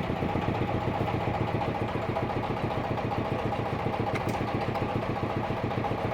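Sawmill engine idling steadily, an even unbroken running sound.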